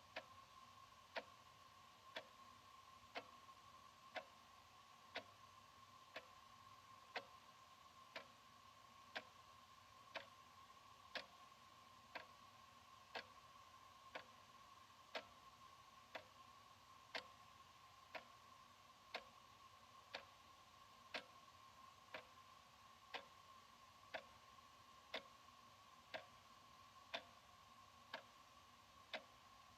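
Analog wall clock ticking steadily, one quiet tick each second, over a faint steady high hum.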